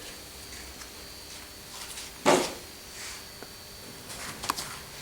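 Handling noises on a workbench: one solid knock about two seconds in, then lighter knocks, clicks and rubbing near the end.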